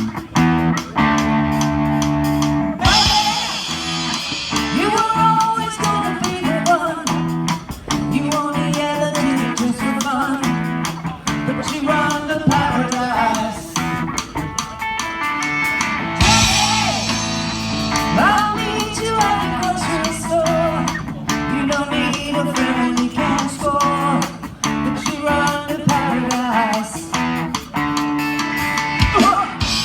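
Live rock band playing: electric guitar, bass and drum kit, with a lead vocal coming in about three seconds in.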